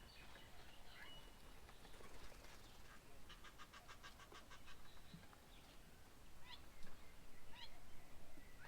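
Faint birds calling: scattered short chirps and whistles, with a fast rattling trill of about eight pulses a second lasting around a second and a half near the middle.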